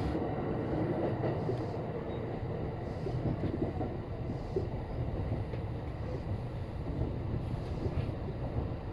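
Kintetsu electric train running, heard from inside the car: a steady low rumble of the wheels and running gear on the track, with a few faint clicks.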